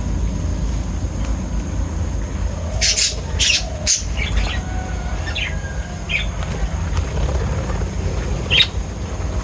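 Birds calling: three loud, sharp calls in quick succession, then a run of short chirps and one more call near the end, over a steady low rumble.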